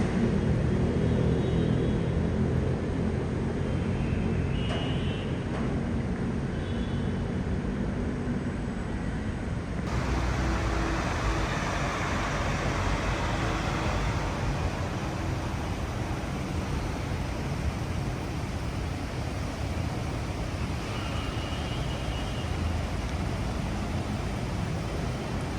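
Steady city road traffic: a continuous noise of cars and other vehicles passing on a busy road.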